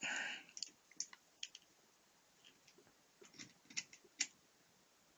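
Scattered faint clicks and taps of small hard objects being handled, with a few sharper clicks about three to four seconds in, after a short hissy rustle at the start.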